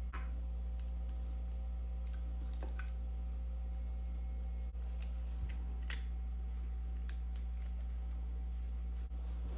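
Faint small clicks and taps of hand tools on phone parts during a phone screen repair, scattered irregularly over a steady low hum.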